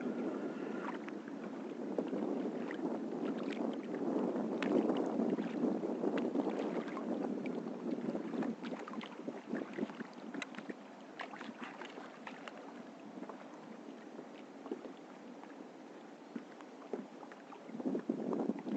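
Kayak drifting on open water: a steady rush of wind and water with small clicks and splashes scattered through it, easing off in the second half.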